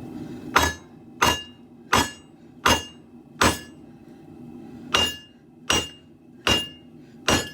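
Hand hammer striking steel on an anvil during sword forging: nine sharp ringing blows, about one and a half a second, with a short pause midway.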